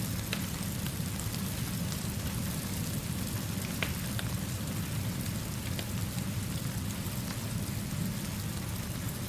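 Steady rainfall with a constant low rumble beneath it, and a few sharp ticks here and there.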